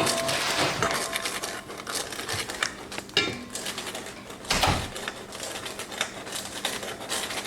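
Metal flour sifter being worked by hand over a bowl: a rapid run of scraping and clicking with short squeaks, and a single heavier thump about four and a half seconds in.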